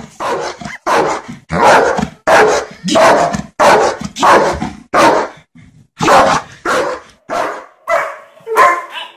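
A dog barking over and over, loud sharp barks coming about one to two a second with brief gaps between them.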